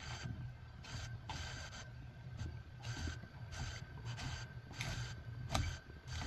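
Repeated scraping strokes, about two a second, with a low rumble underneath.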